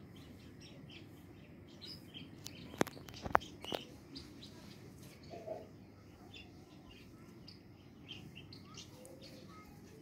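Birds chirping in short, scattered high notes, with two sharp clicks about half a second apart around three seconds in.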